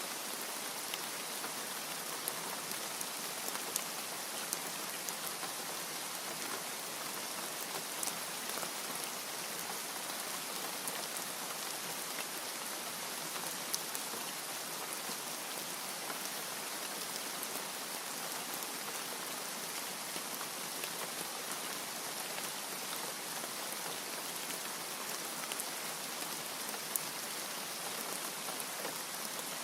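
Steady rain falling: an even hiss of rain with many sharper drop ticks scattered through it.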